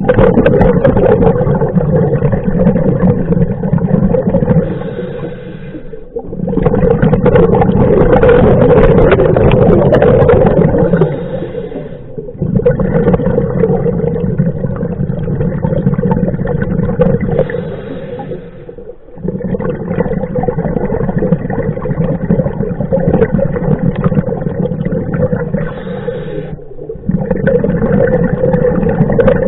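Scuba diver breathing underwater through a regulator: long, noisy, gurgling spells of exhaled bubbles, broken by short gaps about every six to seven seconds.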